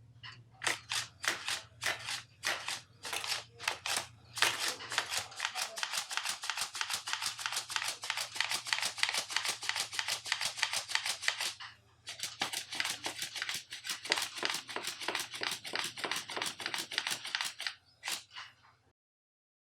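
Scissors cutting paper in a fast run of snips, pausing briefly about halfway and stopping shortly before the end.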